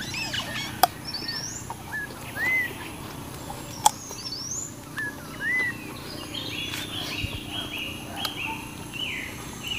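Wild birds calling repeatedly: short arched whistled notes and higher rising notes, then a chattering run of notes over the last few seconds. Two sharp clicks stand out, about one second and four seconds in.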